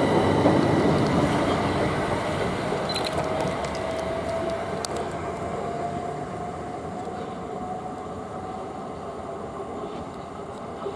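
Electric multiple-unit train pulling away, its traction motor whine slowly rising in pitch over the running noise, which fades steadily as the train leaves.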